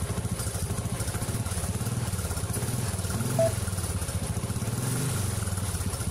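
Royal Enfield Bullet's single-cylinder engine idling with a steady, even beat through a freshly fitted chrome silencer, run to check the fitting for correct sound and no vibration. A brief high squeak comes about three and a half seconds in.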